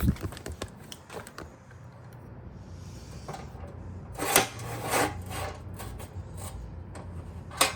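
Scattered clicks and knocks, with a short scraping rub about four seconds in, from the cast-iron table saw's mechanism being handled and adjusted.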